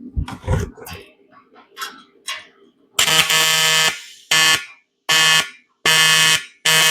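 AC TIG welding arc on aluminum buzzing in five short bursts, starting about three seconds in, as the pieces are tack-welded.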